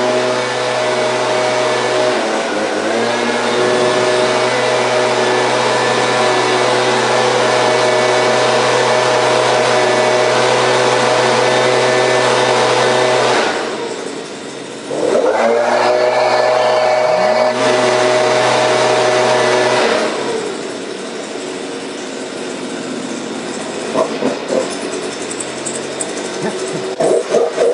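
Small gas engine of a blower running steadily at high speed while it warms up after a cold start. About halfway through it drops off briefly and comes back up. About two-thirds in it falls to a lower, idling speed, with a few knocks near the end.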